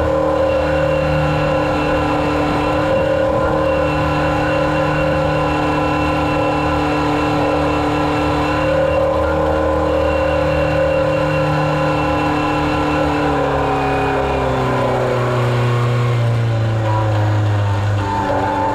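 Engine running steadily under power, then its pitch sinks gradually over the last few seconds as it slows down.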